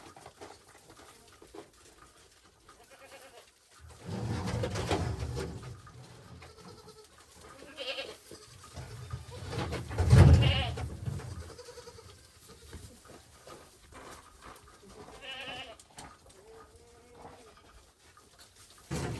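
Goats bleating, several separate quavering calls a few seconds apart, the loudest about ten seconds in, with bursts of low rumbling noise.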